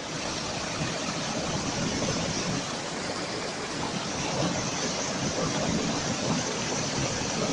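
Steady rushing noise without pitch or rhythm, like running water or wind, starting abruptly on a cut.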